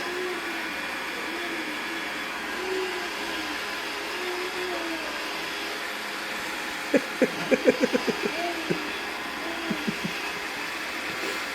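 iRobot Roomba robot vacuum running with a steady whir. About two-thirds of the way in comes a quick run of about ten sharp taps, then a few more.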